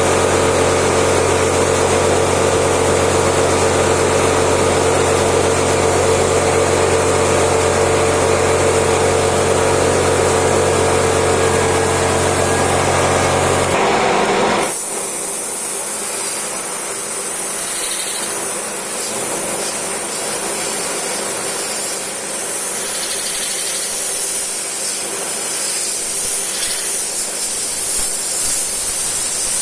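Metal lathe running while turning acrylic: a steady motor hum with several fixed tones. About halfway through the hum falls away and a steady high hiss takes over.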